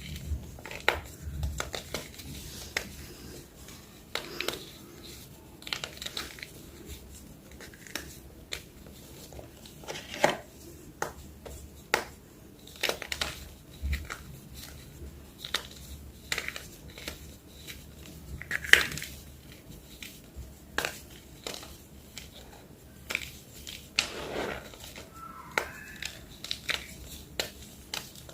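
Blocks of plain white gym chalk (magnesium carbonate) being crushed, giving irregular crisp crunches and snaps a few times a second, with one louder snap about two-thirds of the way through.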